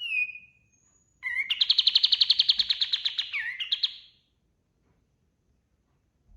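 Kapas tembak bird singing: a short falling whistled call, then about a second later a fast, even trill of sharp high notes, about nine a second, lasting around three seconds and ending with a couple of brief flourishes.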